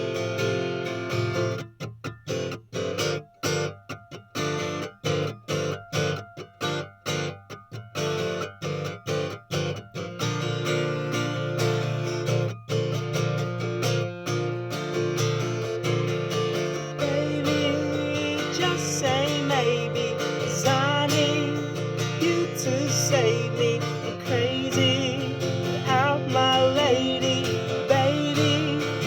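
Acoustic guitar strummed in an instrumental passage of a song, with sharp rhythmic stops in the strumming between about two and ten seconds in.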